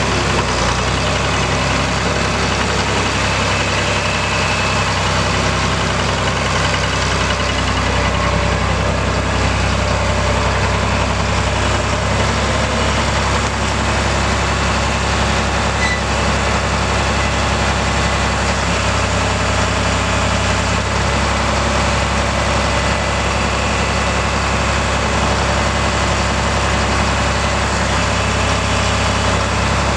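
John Deere 4020's six-cylinder diesel engine running steadily.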